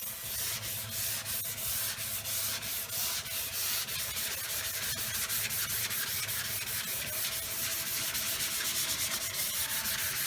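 Hand block-sanding of a Chevelle door panel: sandpaper on a soft sanding block rubbed back and forth over the panel in steady strokes, which quicken in the last few seconds.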